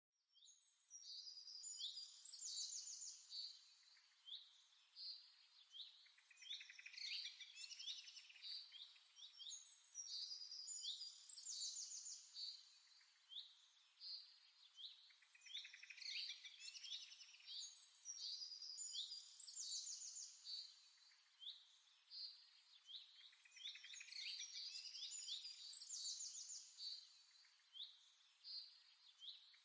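Faint birdsong: small birds chirping and singing quick, high trills in short repeated phrases.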